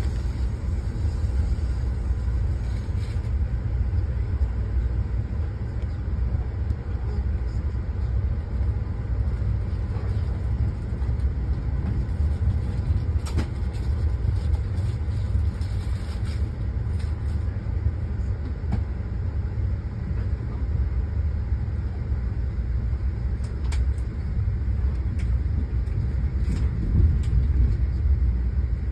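Steady low rumble of a train running, heard from inside the passenger car, with a few faint clicks scattered through it.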